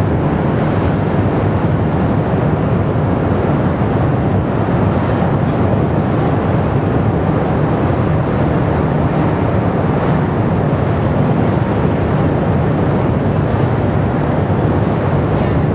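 Ruptured underground steam pipe venting high-pressure steam: a steady, loud rumbling.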